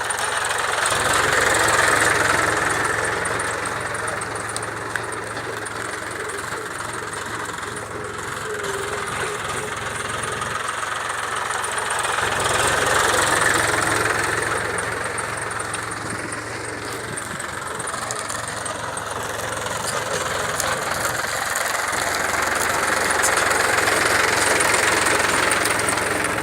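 Mahindra tractor's diesel engine running steadily, swelling louder and fading back three times, about every eleven seconds.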